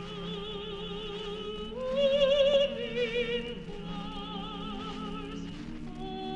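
Choir singing long held notes with vibrato, several voices at once; about two seconds in, a louder, higher note swells out over the others, then settles back.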